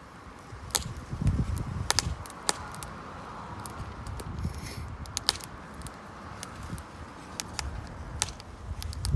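Wood campfire crackling, with sharp irregular pops scattered throughout and a low rumble about a second in.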